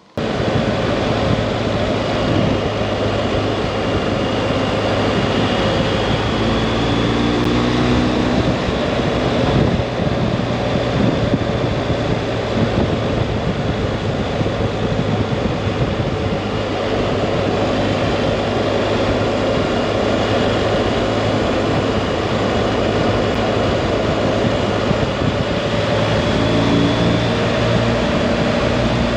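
Adventure motorcycle on the move: steady, loud engine drone mixed with wind and road noise, cutting in suddenly at the start.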